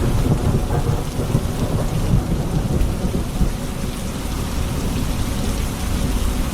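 Steady rain with a low, continuous rumble of thunder underneath.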